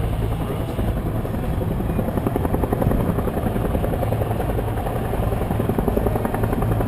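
AH-1 Cobra helicopter's rotor and turbine engine, heard from on board, running steadily with a fast, even beat of the rotor blades.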